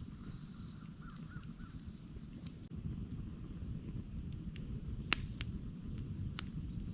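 Campfire burning: a steady low rumble with a few sharp crackles and pops of burning wood. The loudest pop comes about five seconds in, with another just after it and one more near the end.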